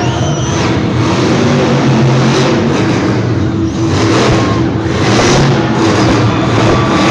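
Monster truck engine running loudly and revving, a dense, continuous engine sound that swells and eases without a break.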